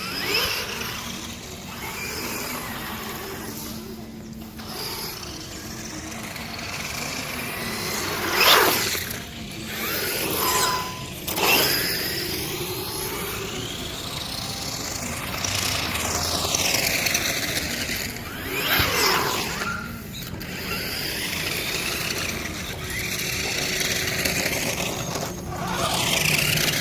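Brushless electric motor of a 1/10 HSP Brontosaurus RC monster truck whining up and down in pitch as the truck is driven, speeding up and slowing repeatedly, with tyre noise underneath and a few louder bursts of acceleration.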